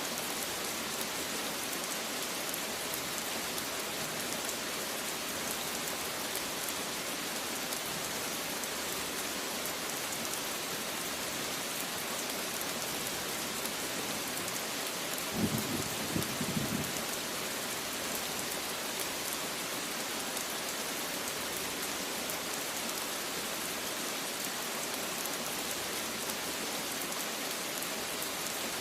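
Steady rain falling, an even hiss of many drops. About halfway through there is a brief low rumble lasting a second or so.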